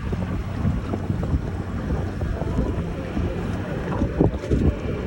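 Strong wind buffeting the microphone in gusts, over the wash of surf on the beach.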